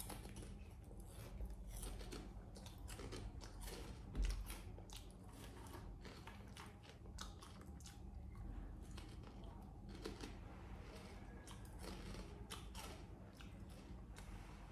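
Monkey chewing potato chips: irregular crisp crunching clicks, with one louder knock about four seconds in.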